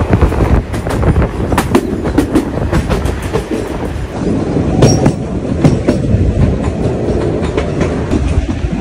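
Ferrocarril de Sóller narrow-gauge train with wooden carriages running along the track: a steady rumble with the clickety-clack of wheels over the rails, clicks thickest in the first couple of seconds and again about five seconds in.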